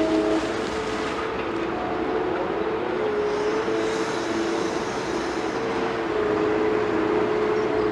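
Heavy excavator's diesel engine and hydraulics running, with a steady whine in two tones that shift slightly in pitch about three seconds in.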